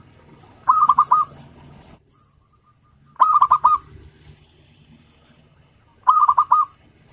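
Zebra dove (perkutut) cooing: three short song phrases about three seconds apart, each a quick run of four or five clipped notes.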